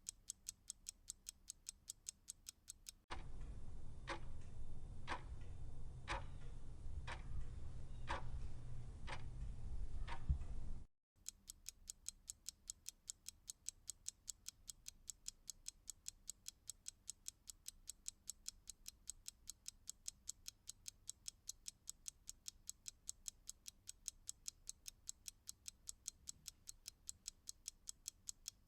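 Clock ticking: rapid, even ticks about five a second, interrupted from about three seconds in to about eleven seconds in by a louder recording of a clock ticking about once a second over a low hum. After a brief dropout the rapid ticking resumes.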